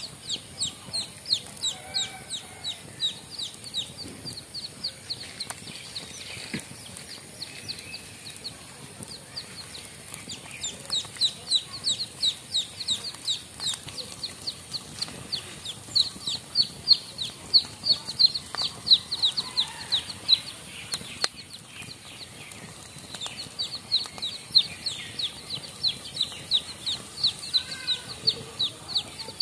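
A bird calling in quick high chirps, each note sliding down in pitch, about three to four a second, in long runs broken by short pauses.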